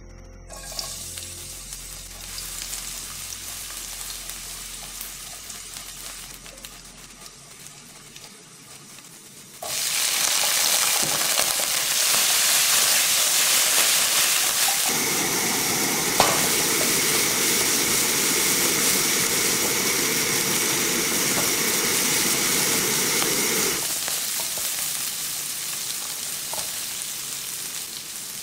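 Minced garlic sizzling in hot oil in a nonstick frying pan. About ten seconds in the sizzle jumps suddenly much louder as the cut green beans go in, and they are stir-fried on high heat with a click of the utensil partway through. Near the end the sizzle settles to a gentler hiss.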